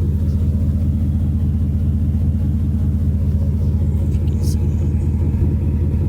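Ford F-150's 5.0 V8 idling warm through an aftermarket WWP stainless dual exhaust, a steady low rumble with an even pulse.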